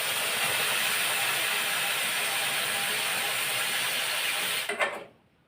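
Cold water poured into semolina roasted in hot ghee, sizzling and hissing steadily, cutting off about five seconds in.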